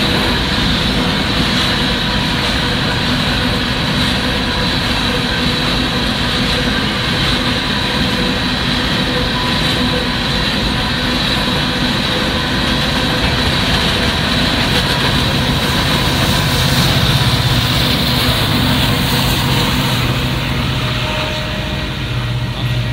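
Empty coal train's cars rolling through a grade crossing, a loud, steady rumble and clatter of wheels on rail. The noise drops near the end as the last car clears the crossing.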